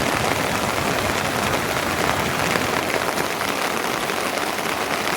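Steady rain falling: an even, dense patter of drops.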